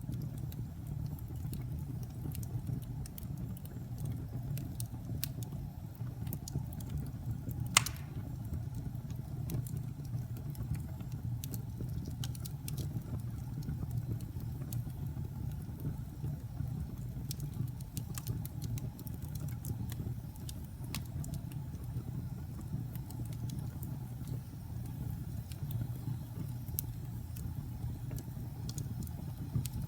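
Wood fire burning: a steady low rumble of flames with scattered crackles of burning wood, and one loud sharp pop about eight seconds in.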